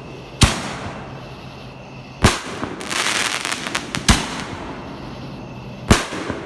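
Fireworks going off: four loud bangs about every two seconds, with a burst of rapid crackling between the second and third.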